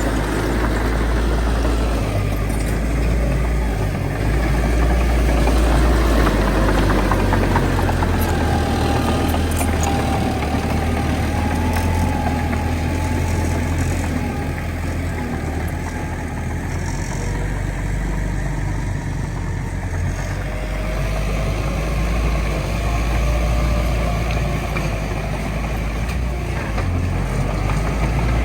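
The heavy diesel engine of a bulldozer working soil, running continuously with a strong low drone. A fainter whine rises and falls twice as the engine load changes.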